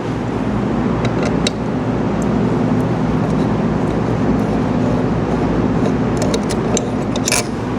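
Steady mechanical drone of a running motor, with a few light metallic clicks about a second in and again near the end.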